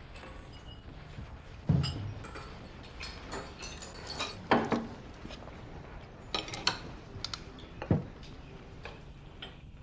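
Billiard balls clacking, a string of sharp hard clicks, three louder knocks among them with a low thud.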